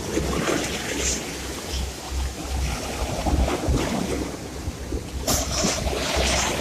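Sea surf washing, with wind buffeting the microphone in low rumbling gusts; a louder rush of surf comes in about five seconds in.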